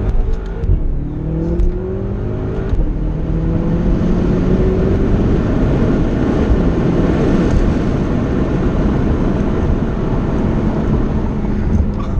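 BMW F10 M5's 4.4-litre twin-turbo V8, breathing through a full Akrapovic exhaust, accelerating hard: the engine note climbs through several quick upshifts in the first few seconds, then settles into a steady loud drone at speed.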